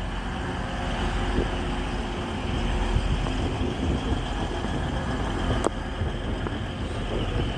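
A TransPennine Express train of two coupled Class 185 diesel multiple units going past on the platform line, its diesel engines and wheels making a steady running noise. There is one sharp click about three-quarters of the way through.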